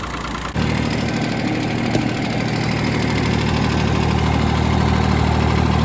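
1985 Ford 1910 tractor's three-cylinder diesel engine running steadily, back in running order after a sludge-clogged fuel line was blown out and the fuel system rebled. About half a second in, the engine sound jumps suddenly louder and deeper, then holds steady.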